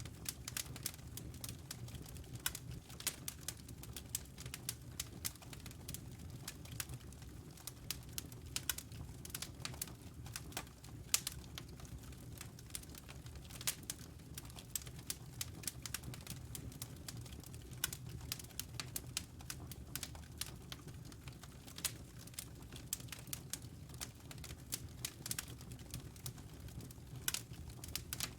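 Wood fire crackling in a fireplace: a constant scatter of sharp pops and snaps over a steady low rumble.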